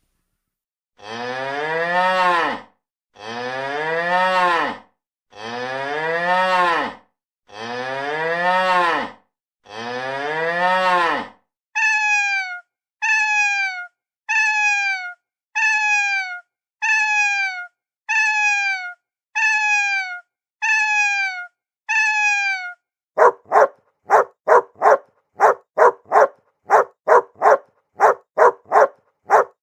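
A cow mooing in five long calls, then a cat meowing about ten times in short calls that fall in pitch, then a dog barking rapidly, about two barks a second.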